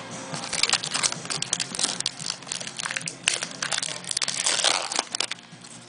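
Trading-card pack wrappers crinkling and tearing as packs are ripped open and handled: a dense, irregular run of crackles and rustles.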